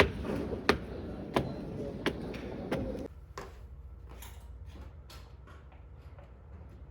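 Sharp knocks at an even pace, about one every 0.7 seconds, over a busy clatter; they stop abruptly about three seconds in, leaving only faint scattered ticks.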